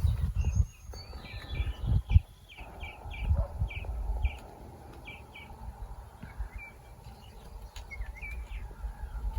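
A bird calling a quick series of about ten short, repeated chirps in the first half, with a few scattered calls later. Under it runs a low rumble, with a sharp thump about two seconds in.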